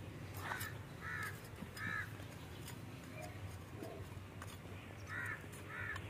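A bird cawing: three calls in the first two seconds, then two more near the end, over faint sharp clicks and a steady low hum.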